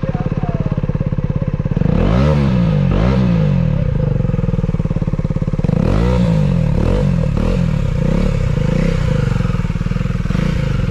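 KTM Duke 250's single-cylinder engine running through an aftermarket Akrapovic-copy exhaust, idling and then revved in quick throttle blips, a couple about two seconds in and a longer run of blips from about six seconds.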